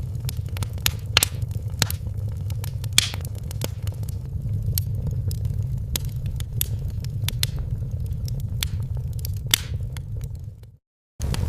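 Wood fire in a fireplace crackling, with irregular sharp pops over a steady low rumble. The sound cuts out completely for a moment near the end, then resumes.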